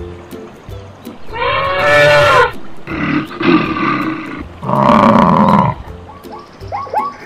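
Cartoon wild-animal call sound effects over background music: three long, loud calls one after another, then a run of short chirping notes near the end.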